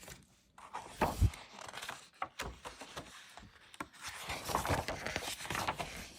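A hardcover book being handled: a knock or thump about a second in, then pages rustling and turning.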